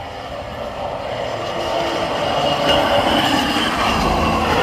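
Train rolling along the station tracks, its noise slowly building, with a thin high squeal from the wheels on the rails.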